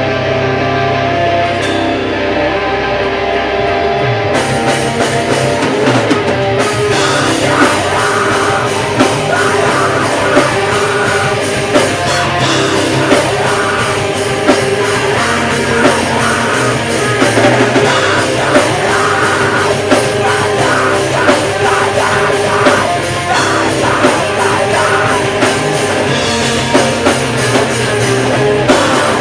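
Heavy band playing live and loud: distorted electric guitars ring out alone at first, then the drum kit comes in about four seconds in and the full band drives on with hard, regular cymbal and snare hits.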